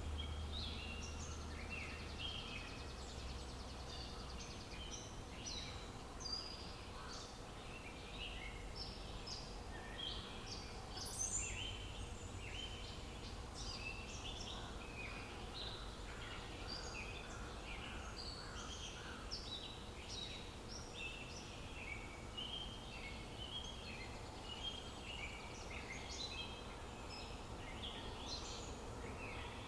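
Birds chirping and singing: a dense chorus of many short, high chirps overlapping, over a steady low background hum of outdoor ambience.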